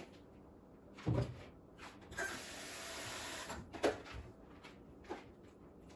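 Kitchen handling sounds as Miracle Whip is scooped from its jar into the salad bowl: a dull knock about a second in, about a second and a half of scraping, then another sharp knock.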